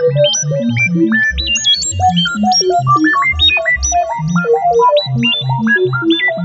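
Synthesized laser-beam sound effect: a fast, dense stream of short electronic zaps at many different pitches, each with a quick jump in pitch, overlapping so that they run together like a synth arpeggio.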